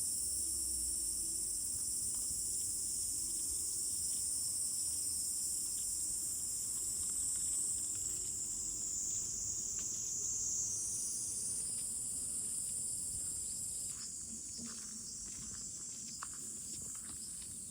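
Cicadas buzzing in a steady, high-pitched summer drone, with a few soft clicks in the last few seconds.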